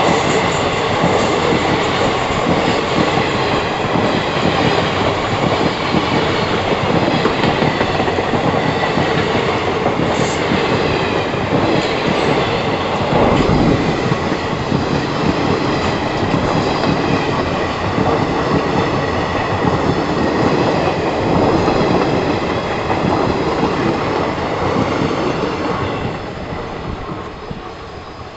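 Indian Railways ICF passenger coaches running past at close range: a steady rumble and clatter of wheels on the rails, with a thin, steady, high wheel squeal over it. The sound falls away over the last couple of seconds as the last coach pulls away.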